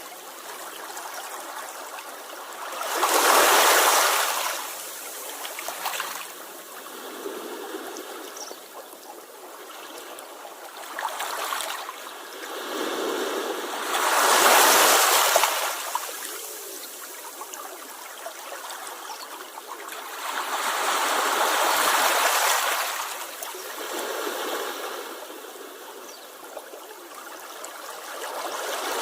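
Sea waves washing onto the shore: a steady wash of surf with three louder surges, each building and fading over a couple of seconds.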